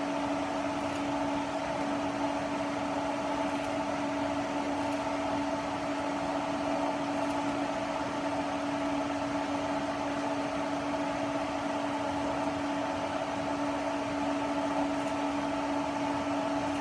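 AC TIG welding arc on aluminum, fed by an Everlast PowerPro 256S welder, buzzing with a steady, constant hum while the foot pedal is held down and filler rod is dabbed into the puddle.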